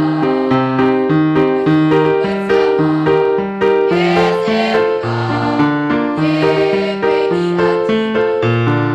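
Electric keyboard playing an instrumental passage of a school march with no singing, bass notes and chords changing about every half second.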